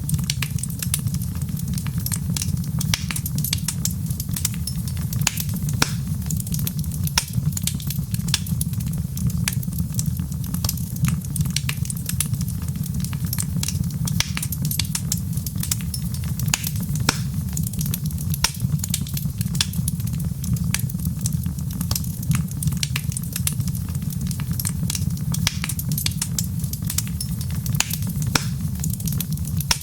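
Wood fire crackling: many small, irregular, sharp pops and snaps over a steady low rumble.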